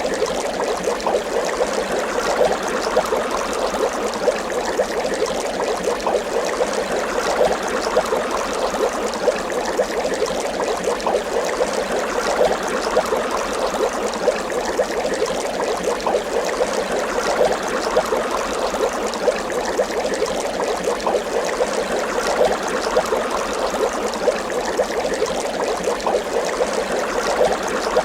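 Water bubbling continuously, with a steady stream of small pops and gurgles.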